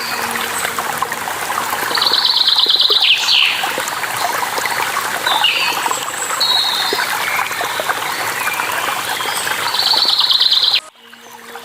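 Running water of a stream or waterfall, a steady rush, with birds chirping over it. A rapid trilling call comes about two seconds in and again near the end. Scattered shorter chirps fall between the trills. Near the end the whole sound cuts out suddenly, then fades back in.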